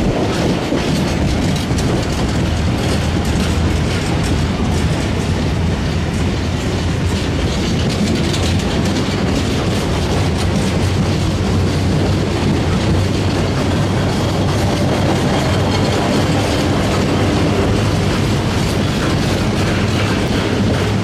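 Freight train rolling past, its wagon wheels clattering steadily over the rail joints over a continuous low rumble.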